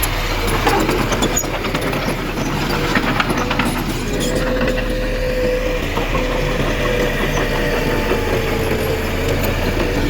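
Diesel engine of heavy earthmoving machinery running steadily, with a wavering whine over it and a run of clanks and knocks in the first three or four seconds.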